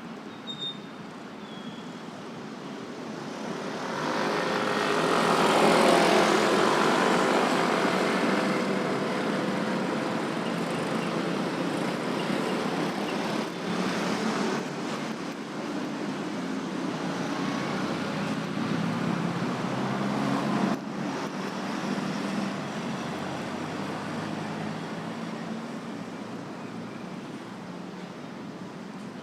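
Busy road traffic at an intersection, with motorbikes, cars and trucks passing and engines running. The traffic swells to its loudest about six seconds in as vehicles pass close, then carries on steadily.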